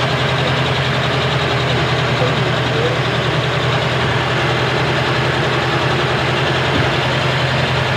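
Mitsubishi Lancer's carbureted four-cylinder engine idling steadily at an even speed, running on its freshly overhauled carburetor.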